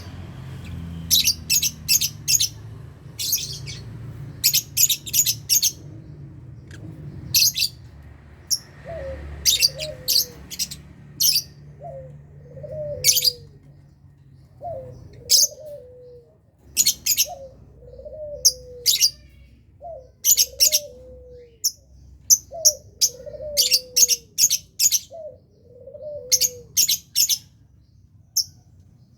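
Lovebirds chirping: sharp, high-pitched chirps in quick clusters. From about nine seconds in, a lower, falling two-note call repeats every second or two beneath them.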